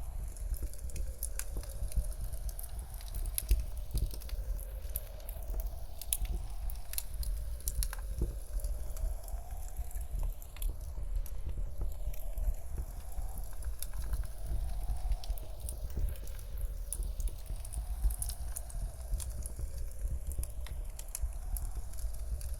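Wood fire crackling with frequent sharp pops over a steady low rumble of blizzard wind. The sound sweeps slowly and regularly, as in 8D-panned audio.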